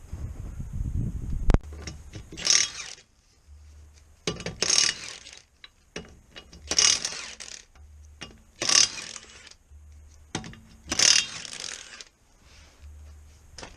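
Ratchet clicking in five short bursts about two seconds apart, as a ratchet is worked stroke by stroke on a car repair, after a sharp click near the start.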